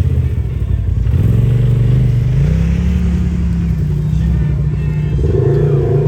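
Off-road vehicle engines revving on a dirt hill climb: one engine rises in pitch about a second in and holds under load, and a second engine joins near the end.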